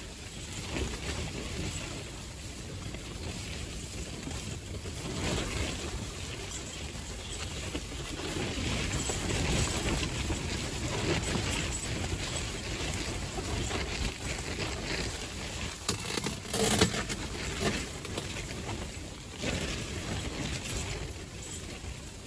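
Strong gusty wind blowing over the ice and buffeting the microphone, swelling and easing in gusts, with a short, louder knock about seventeen seconds in.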